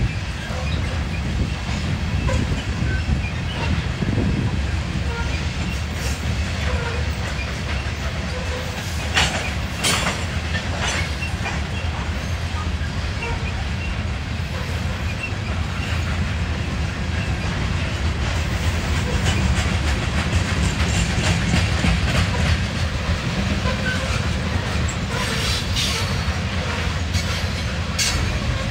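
A train rolling past with a steady low rumble from its wheels and cars, and groups of sharp clicks about a third of the way in and again near the end.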